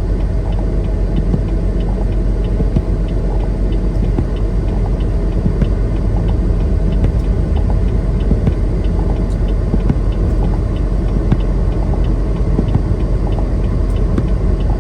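Steady low rumble of a semi truck's engine and tyre noise heard inside the cab while driving.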